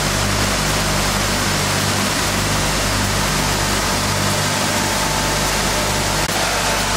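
Sanding machine running steadily while profiling a wood board core: a loud, even rushing noise over a low machine hum, with a thin whine that gets stronger about six seconds in.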